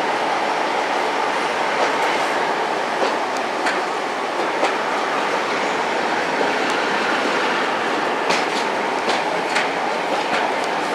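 Train running along the track: a steady rumble, with sharp clicks now and then as the wheels pass over rail joints.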